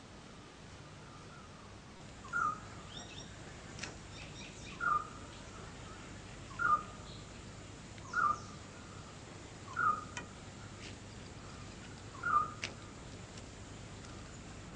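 A bird repeating a short, mid-pitched call six times, about every two seconds, over faint higher chirping and a low background hiss.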